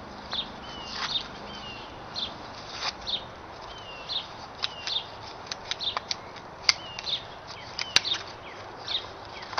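A bird chirping over and over, short sweeping calls about every half second. Several sharp clicks, the two loudest about seven and eight seconds in, come from a plastic fishing-rig package being pried open.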